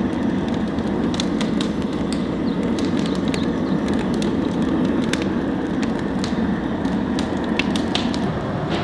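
Wood fire burning steadily with a low rushing sound, with frequent sharp crackles and pops from the burning logs.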